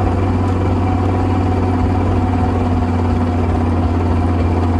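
In-cabin sound of a 1995 BMW M3's S54 straight-six and ZF 5-speed drivetrain running steadily, dominated by a loud low drone from the transmission tunnel. This is the vibration and rubbing noise that comes only under acceleration and stops when coasting, a fault of unknown cause somewhere in the transmission or driveline.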